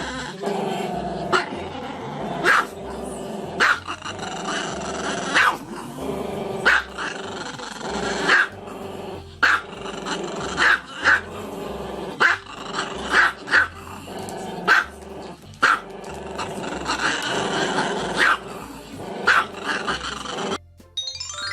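A dog growling continuously, breaking into sharp barks about once a second, cutting off suddenly near the end.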